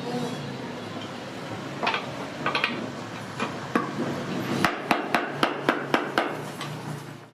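Hammer blows in hand woodworking: a few spaced strikes, then a quicker run of about nine, roughly three a second, about two-thirds of the way in.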